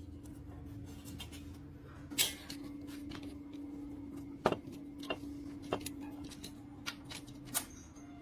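Irregular sharp clicks and light knocks, about six, over a steady hum.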